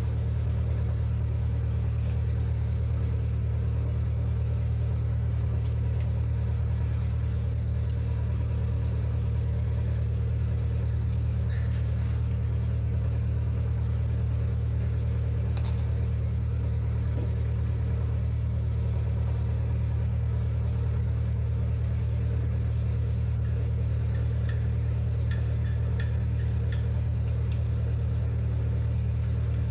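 An engine running steadily at a constant speed, a deep even hum, with a few faint clicks partway through.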